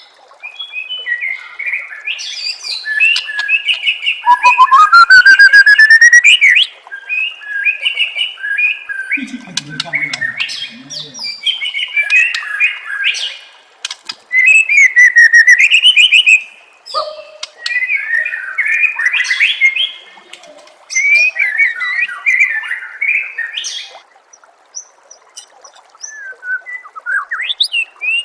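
White-rumped shama (murai batu) singing a varied song of clear whistles, rising glides and fast trills in phrases separated by short pauses, loudest in two long phrases and trailing off to softer notes near the end.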